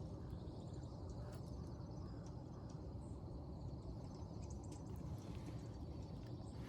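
Faint outdoor ambience: a high insect chirring over a steady low rumble, with a few light clicks.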